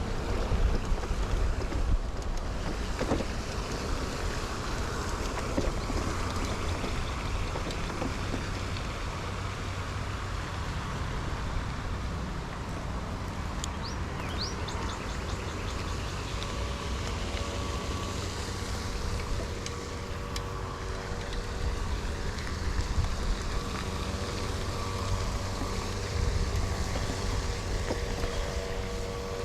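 Riding noise of a 2000 Kona Blast mountain bike, picked up by a chest-mounted camera: a steady low rumble of wind on the covered microphone and tyres rolling on pavement, rising and falling a little with the ride.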